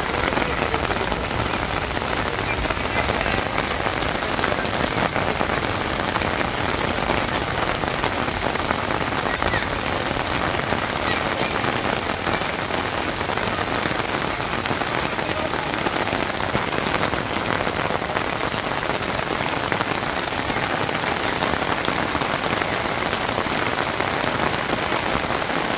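Steady, continuous rain falling on waterlogged grass, trees and standing floodwater, an even hiss that does not let up.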